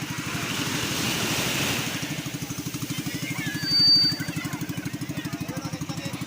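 A small engine idling with a rapid, even chug. A short, high, steady whistle tone sounds briefly a little past halfway.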